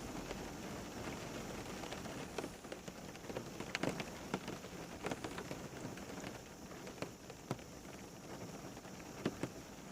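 Steady rain falling on a surface, a constant hiss with individual drops ticking sharply now and then, a few louder drops around the middle and near the end.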